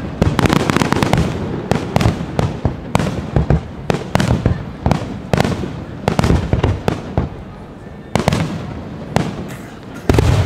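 Fireworks display: a dense run of sharp cracks and bangs from bursting shells, with a heavy boom near the end.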